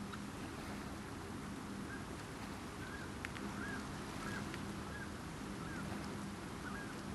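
Outdoor lake ambience: a steady rush of wind and water under a low steady hum. Over it a bird gives about seven short, clipped calls, starting about two seconds in and ending near the end.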